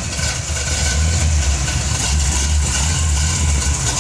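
A lifted fire-department brush truck's engine idling with a steady deep rumble.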